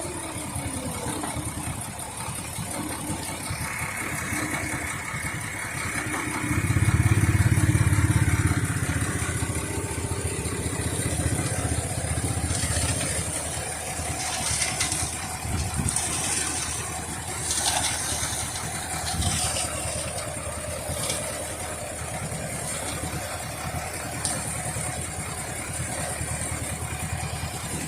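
Concrete pump truck's diesel engine running steadily, swelling louder and deeper for a couple of seconds about seven seconds in, with scattered knocks partway through.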